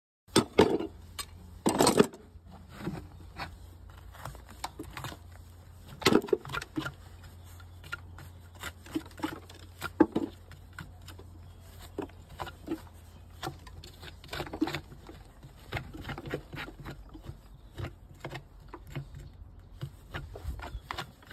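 Hoof trimming on a Shire horse: irregular sharp cuts, clicks and scrapes of tools on hoof horn, a few of them much louder, over a low steady hum.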